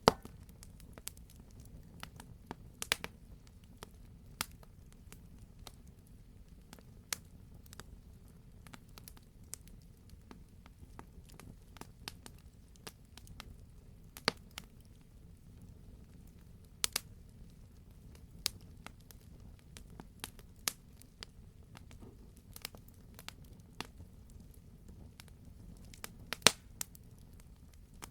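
Wood fire burning in a fireplace: a steady low rumble of the flames with irregular crackles and sharp pops, a few of them louder, the loudest near the end.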